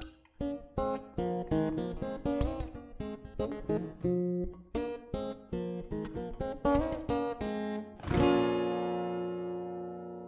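Acoustic guitar music: a run of plucked notes, ending about eight seconds in with a strummed chord that rings out and slowly fades.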